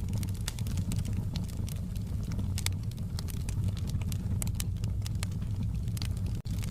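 Wood fire burning in a fireplace: frequent sharp crackles and pops at irregular intervals over a steady low rumble of the flames, with a split-second dropout near the end.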